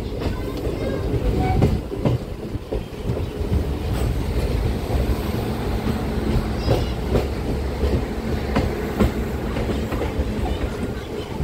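MEMU electric passenger train running along the platform, heard from its open doorway: a steady rumble with wheels clicking over rail joints. A brief high squeal comes about two-thirds of the way in.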